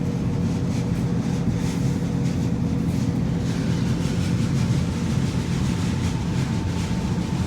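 Passenger train running: a steady low rumble with a faint steady hum.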